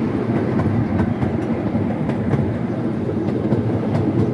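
Scenic railway train running along its track, heard from a passenger car: a steady low rumble of wheels on rail with scattered light clicks and clacks.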